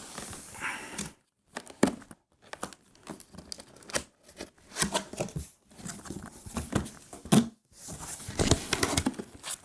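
A cardboard box being opened and its packing material handled: irregular tearing and crinkling noises, some louder than others.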